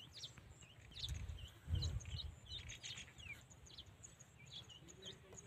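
Small birds chirping: many short, high peeps in quick succession. Two brief low thumps come about one and two seconds in, the second the loudest sound.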